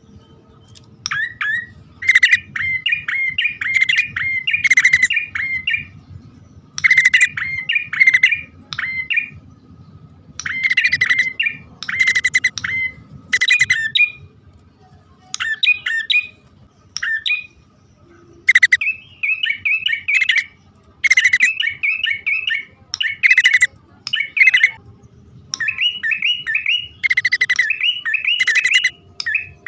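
Prinias (prenjak), male and female, calling on a bird-luring recording: bouts of rapid, repeated chirps a second or two long, separated by short pauses.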